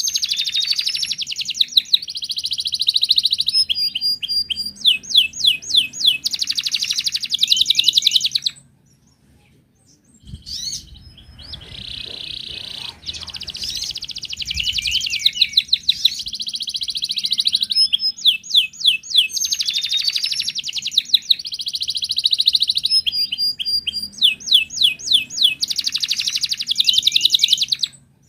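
Canary singing long, fast song phrases of rapid trills and quickly repeated high notes, with one pause of about two seconds about a third of the way in.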